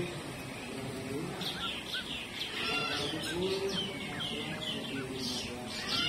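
Birds chirping: a quick run of short downward-sliding chirps, several a second, begins about a second and a half in and keeps going.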